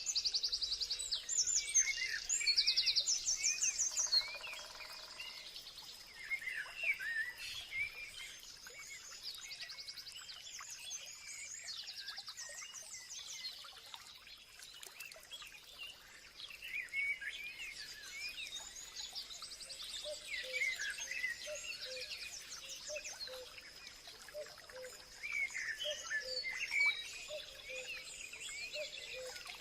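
Many songbirds chirping and trilling together in a busy chorus, over a thin steady high note. Some lower, evenly repeated notes join in the second half.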